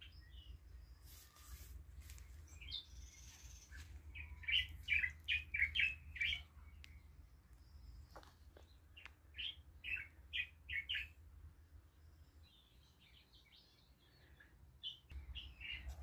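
A wild bird singing in two quick runs of short, sharp chirps, six to eight notes each, a few seconds apart, with a few more chirps near the end over a steady low rumble.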